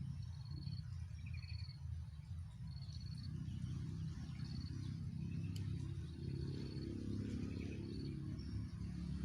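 Short high insect chirps repeating about once a second, over a steady low rumble.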